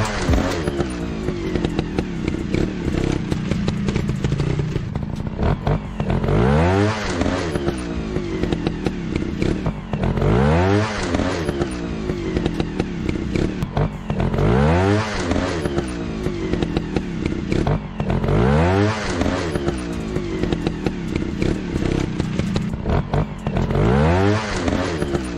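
Motorcycle engine revving up and dropping back over and over, about once every four seconds, each rev a rising sweep in pitch over a steady low hum.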